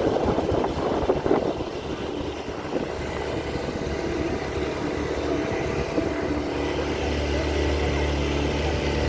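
Small ferry boat's motor running steadily under way, a low even drone that grows stronger about seven seconds in.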